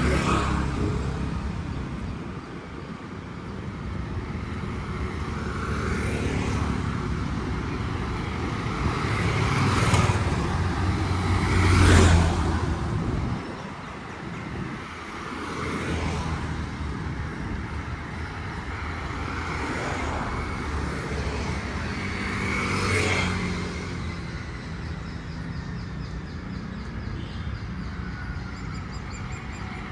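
Road traffic: cars going by one after another over a steady low rumble, each pass swelling and fading. The loudest pass comes about twelve seconds in.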